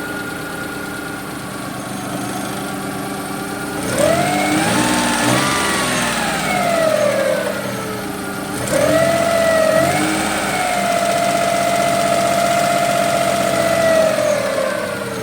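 Suzuki F6A three-cylinder carbureted engine running steadily after a fresh start, then revved up and back down, then revved again and held at a raised speed for several seconds before dropping back to idle. It runs smoothly without misfiring, the sign that the hard starting and misfire have been cured by the carburetor cleaning, distributor cap cleaning and new spark plugs.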